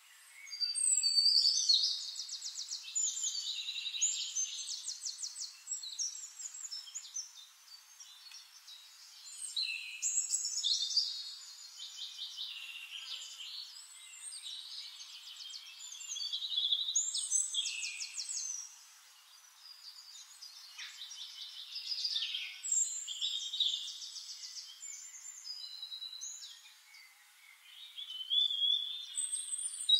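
Birds singing: phrases of rapid trills and chirping whistles, each a second or three long, with short pauses between. It sounds thin, with no low end.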